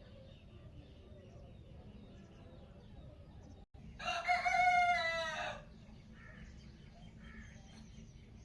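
A rooster crowing once, a single call of about a second and a half starting about four seconds in, dropping slightly in pitch at the end, over faint background birdsong.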